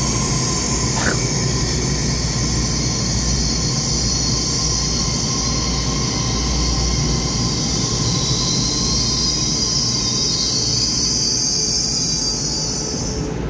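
EMU3000 electric multiple unit train slowing alongside the platform: a low rumble of wheels on rails under a steady high-pitched squeal. The squeal cuts off suddenly near the end.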